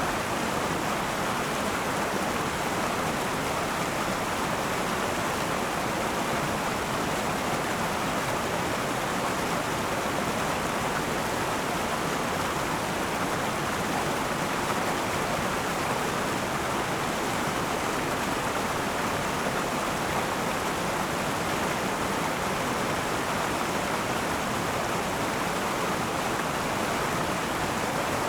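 River water rushing and babbling over rocks in a steady, unbroken flow.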